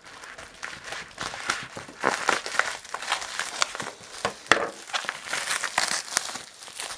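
Bubble wrap crinkling and crackling as it is pulled off a hard drive, a dense run of sharp plastic crackles and rustles.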